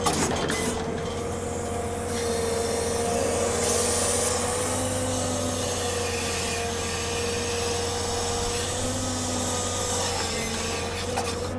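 Log truck's hydraulic loader and engine running: a steady whine over a low hum, with a stretch of scraping, rubbing noise a few seconds in as logs are handled.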